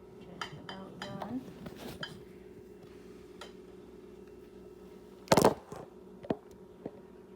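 Dishes and utensils clinking and knocking in a kitchen, with one loud clatter about five seconds in and a few lighter knocks after it, over a steady low hum.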